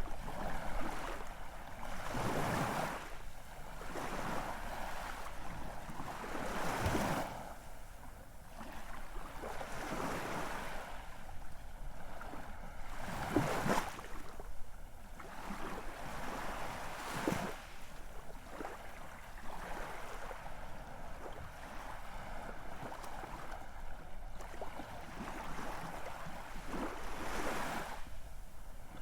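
Ocean surf: a steady rush of water, with waves surging louder every few seconds.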